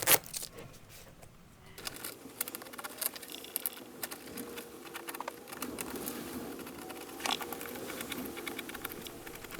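Sun-hardened vinyl seat cover being peeled and torn away from its foam, a run of small irregular crackles and clicks with a faint steady hum beneath.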